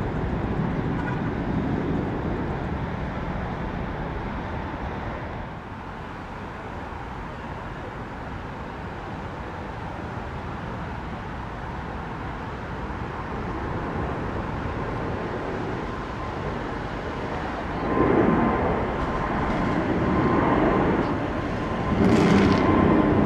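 Departing jet airliners: the engine rumble of one fades over the first several seconds, then another jet's noise swells up near the end with a steady high engine whine.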